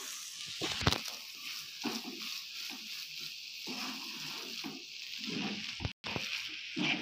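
Soya mince frying and sizzling steadily in a pan over a high flame while a spatula stirs and scrapes through it, with a few short knocks of the spatula against the pan. The sound drops out briefly about six seconds in. The mince is being cooked down until dry.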